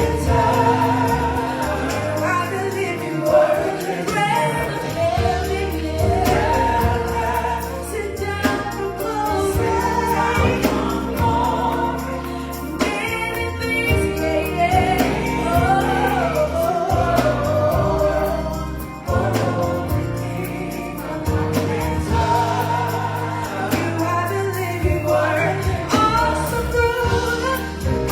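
A gospel choir singing with band accompaniment, over steady bass and sustained chords.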